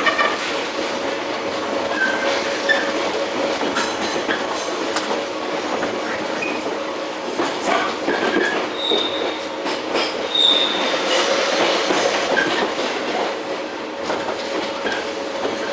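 JR 115-series electric train running, heard from inside motor car MoHa 114-102: a steady rumble and hum from the traction motors and wheels on the rails, with scattered clicks of rail joints. Two brief high wheel squeals come around the middle.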